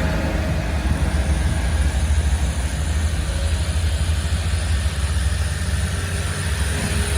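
Heavy truck engine running with a steady low rumble, over road and tyre noise.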